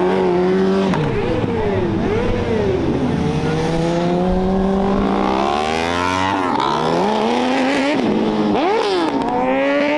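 A group of motorcycles revving and passing one after another, their engine pitch rising and falling with each rev, several engines overlapping.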